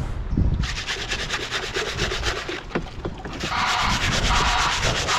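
Bricklaying tools being scrubbed clean with quick, regular back-and-forth rubbing strokes. The strokes start under a second in and get louder about three and a half seconds in.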